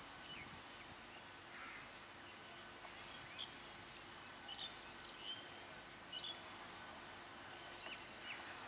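Birds calling with scattered short, sharp chirps, a few every second or two, over faint steady background noise.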